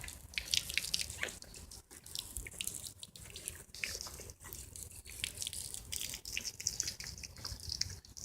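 Water being poured into a small homemade stream and trickling down it, with many irregular little splashes and drips.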